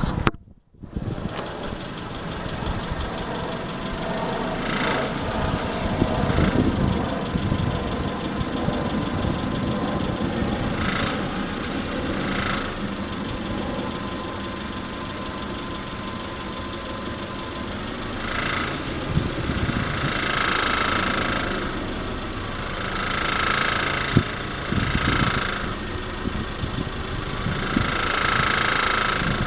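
2003 Honda Civic EX running at low revs, with a rattle that comes and goes in short spells every few seconds. This is the unexplained rattling the owner hears when slowly accelerating or decelerating at barely any RPM.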